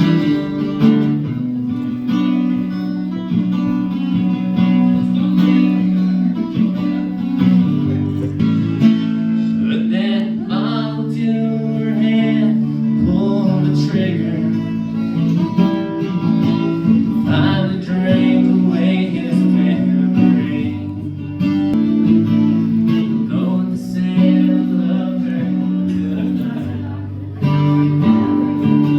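Live band playing a slow song, led by guitar, in a passage without words: steady held chords with a lead line weaving over them in the middle.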